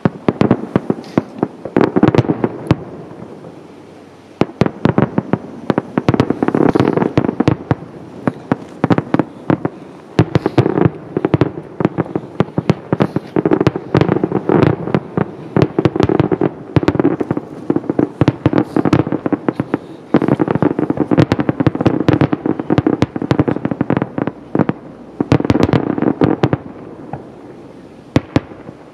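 Fireworks display: a rapid barrage of shell bursts, many sharp echoing bangs in quick succession, with a short lull about three seconds in and thinning out near the end.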